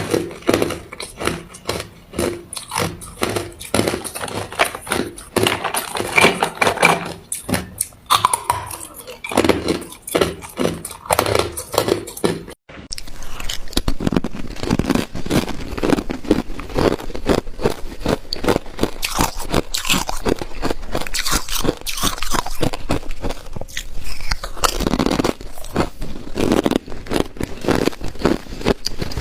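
A person biting and chewing ice: dense, rapid crunching and cracking, with a brief break about twelve seconds in.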